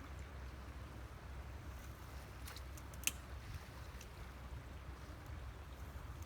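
Faint low rumble of wind on the microphone, with a few small clicks; the sharpest comes about three seconds in.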